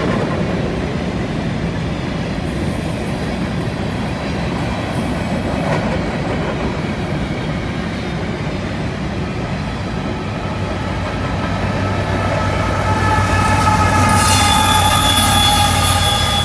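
Freight train of covered hopper cars rolling past on a curve: a steady rumble of wheels on rail, with high thin flange squeal setting in a few seconds in. Near the end the rear distributed-power diesel locomotive draws level: its engine hum joins, and a louder squeal of several tones rises over it.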